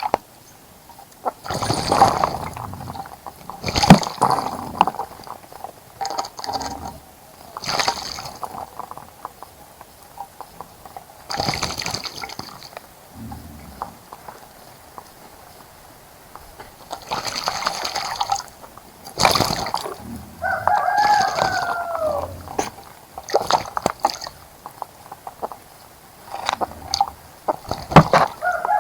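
Small birds splashing in a bird bath: repeated short bursts of splashing and fluttering water, about ten of them with pauses between. About two-thirds of the way through, a single long, drawn-out bird call falling in pitch sounds in the background.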